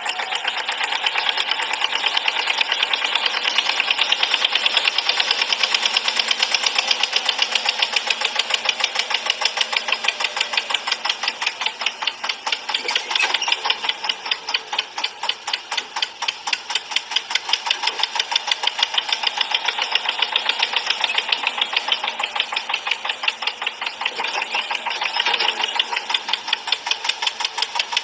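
Mini tractor running with a steady, rapid chug of several even pulses a second, thin and lacking in bass, that dips somewhat partway through and picks up again near the end.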